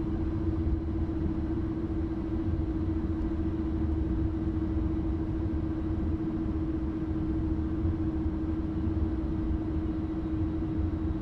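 Airbus A330 flight deck during the landing rollout: a steady low rumble of the airliner rolling and slowing on the runway, with a constant hum running under it.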